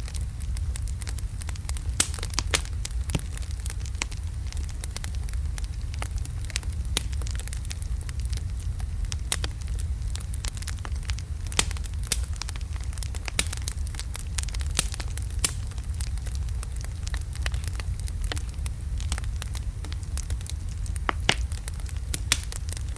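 Wood fire of large burning logs crackling: a steady low rumble with frequent irregular sharp pops and snaps.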